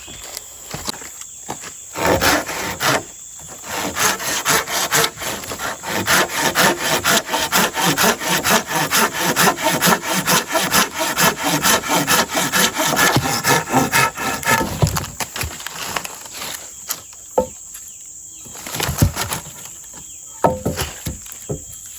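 Hand saw cutting through wood in a run of quick back-and-forth strokes, stopping about two-thirds of the way through, followed by a few scattered knocks of wood.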